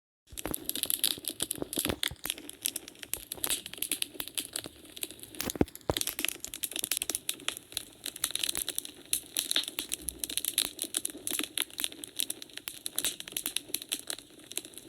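Wood fire burning in a fireplace, crackling continuously with dense small pops and snaps over a soft hiss, and one louder pop about five and a half seconds in.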